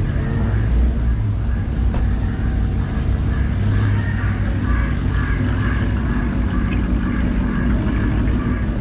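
Car engine running nearby with a steady, deep rumble.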